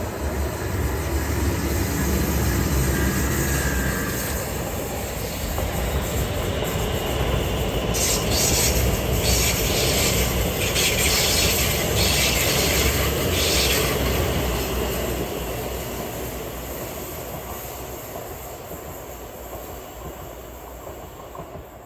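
Trains passing close by on the rails: a tram, then a metro train whose wheels squeal in a run of short screeches for several seconds in the middle. The rumble then fades away toward the end.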